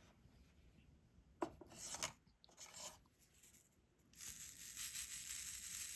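Diamond-painting stylus and resin drills at work: a light click about a second and a half in, a few short scrapes, then a steady soft rubbing starting about four seconds in.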